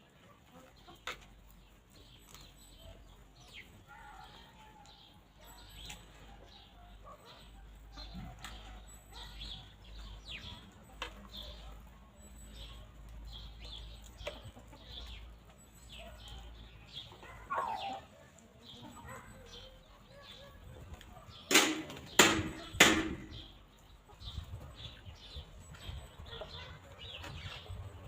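Free-range hens foraging in grass: many short, scattered pecks, small calls and chirps, with a low wind rumble through the middle stretch. About three-quarters of the way in come two loud sudden bursts a second or so apart, a squawk or flurry of wings.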